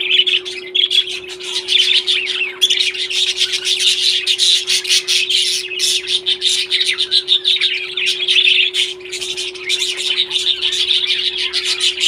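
A group of parrots chattering and squawking without a break, many rapid calls overlapping, with a steady hum underneath.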